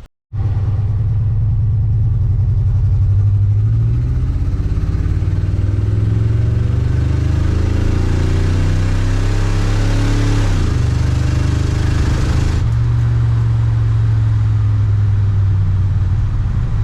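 A 1972 Oldsmobile Cutlass's Olds 350 V8 pulling under acceleration, its pitch rising for several seconds. The revs drop sharply about eleven seconds in, as at an upshift, and then it runs on steadily.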